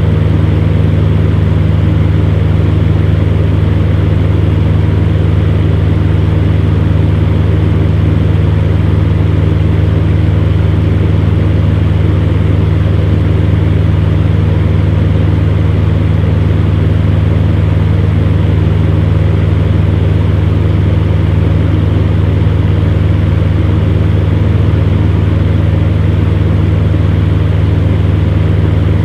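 Electric fan running steadily: a strong, unchanging low motor hum under an even rush of air.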